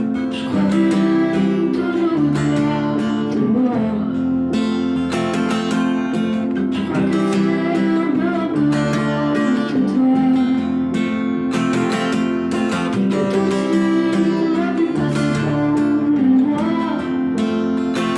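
Music: strummed acoustic guitar playing steady chords, with a melody line that may be singing.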